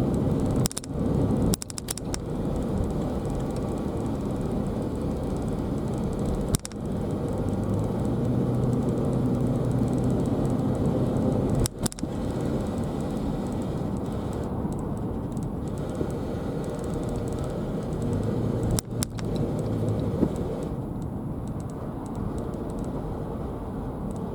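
Car driving: steady road and engine noise, with a few separate sharp knocks or clicks spread through it.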